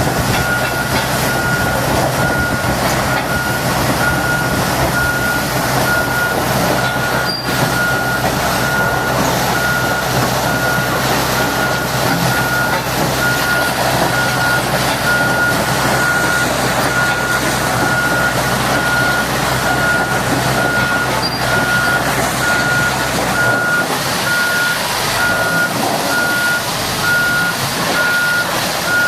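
A heavy machine's reversing alarm beeps steadily, about once a second, over a diesel engine's steady running and a constant rushing noise. The low engine drone drops away about 23 seconds in while the beeping carries on.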